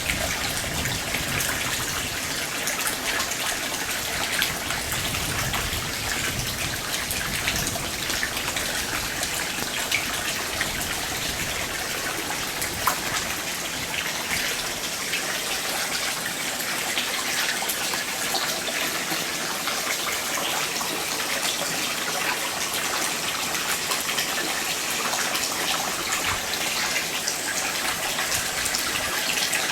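Water running and splashing steadily, without a break, with many small drips and splashes throughout.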